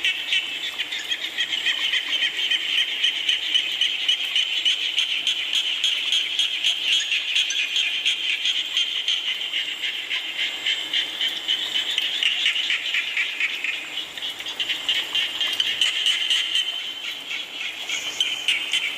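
A chorus of frogs calling together in a dense, rapid pulsing trill. It eases briefly twice in the second half.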